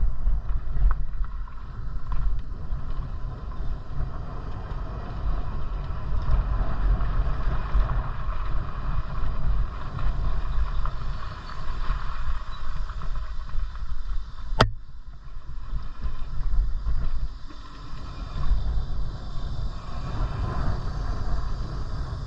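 Wind buffeting and road rumble on the microphone of a camera carried on a moving bicycle, a loud, unsteady low rumble. One sharp click sounds about two-thirds of the way through.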